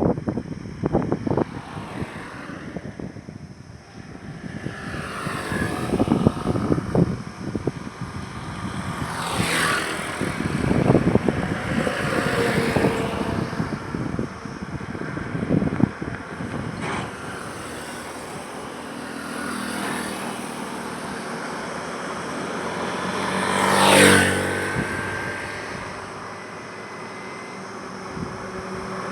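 Highway traffic: vehicles pass one after another, each swelling and fading, with irregular knocks and gusts in the first half. The loudest vehicle passes close near the end.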